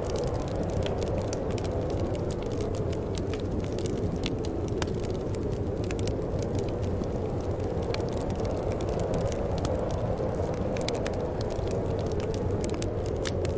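Steady, low wind with scattered small crackles and snaps of a wood fire.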